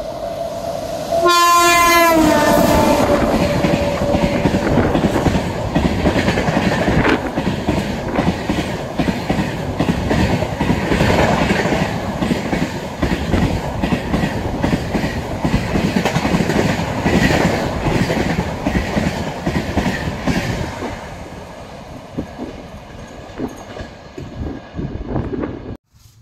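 Indian Railways express train passing at speed. Its two-note horn sounds, then drops in pitch as the locomotive goes by. The wheels then clatter rapidly over the rail joints, and the sound fades away in the last few seconds before cutting off suddenly.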